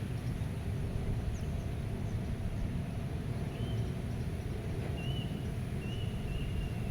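Meadow ambience: a steady low rush of wind, with a few faint, thin bird calls from about halfway through and again near the end.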